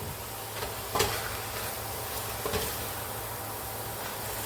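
Chicken and diced vegetables sizzling steadily in a pot before the broth goes in, with a single knock about a second in.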